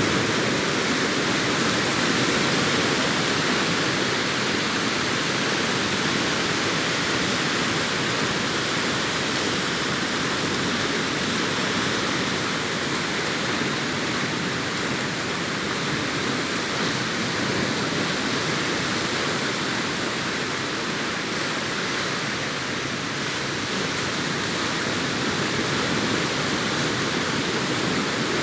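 Sea surf washing onto a beach: a continuous rush of breaking waves with only slight swells in level and no single wave standing out.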